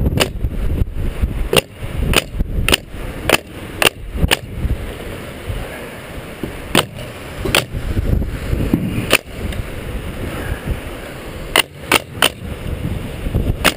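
Pneumatic fastening gun firing a series of sharp shots at irregular spacing, many in the first four seconds, a few spread through the middle, and a quick cluster near the end, over low wind rumble on the microphone.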